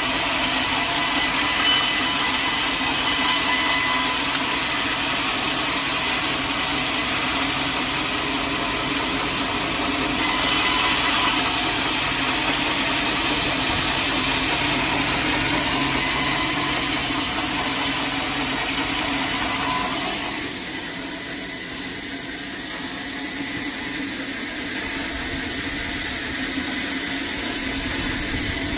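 Sawmill blade running steadily through a log, with a dense cutting noise and a high whine. About two-thirds of the way through, the sound thins out and quietens slightly.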